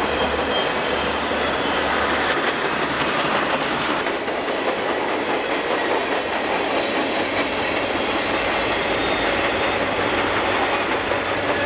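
Freight train rolling past close by: a steady rush of steel wheels on rail with clickety-clack over the joints. About four seconds in the sound changes, as a set of four Conrail EMD SD40 helper locomotives pushing at the rear of a westbound freight draws near behind its cars.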